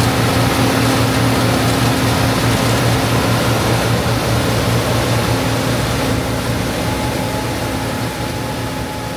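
John Deere 8820 Titan II combine running steadily while harvesting wheat: a diesel engine hum over the noise of the threshing machinery. It grows gradually quieter over the last few seconds.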